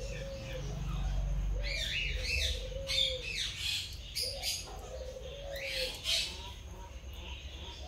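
Birds chirping in the background: short, quick high chirps in scattered bursts, along with a series of short, soft, slightly arched calls repeating about once a second.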